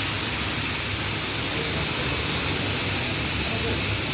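Pressure washer spraying at a steady level: a continuous high hiss of the jet with a low motor hum underneath.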